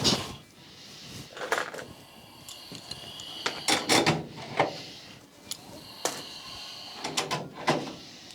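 Irregular knocks, clatters and scraping from hands working with tools and parts, with a faint high whine coming and going in the background.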